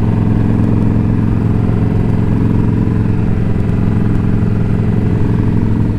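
Indian Scout Bobber's V-twin engine running steadily under way, with an even, unchanging engine note.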